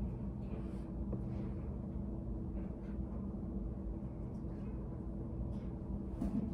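Study cafe room ambience: a steady low hum with a faint steady tone, dotted with soft scattered taps and clicks from people working at desks.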